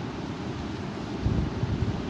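Strong wind blowing and buffeting the microphone with a low rumble, growing louder and gustier about a second in.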